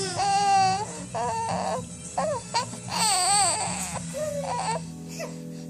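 A four-month-old baby squealing in a run of short, high-pitched vocal cries that glide up and down. The one about three seconds in wavers rapidly, like a whinny.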